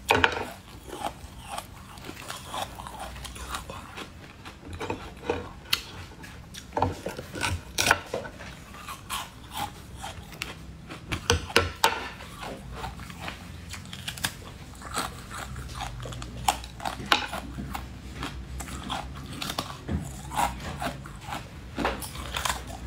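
A person biting and chewing a crunchy food close to the microphone: repeated sharp crackling bites and chews at irregular intervals throughout.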